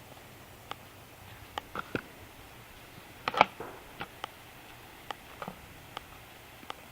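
Scattered light clicks and knocks at irregular intervals, with one louder knock about three and a half seconds in, from small hard objects being handled.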